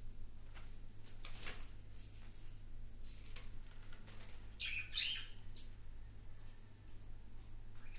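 A bird chirping in a short burst of quick high calls about halfway through, over a steady low hum, with a few faint clicks.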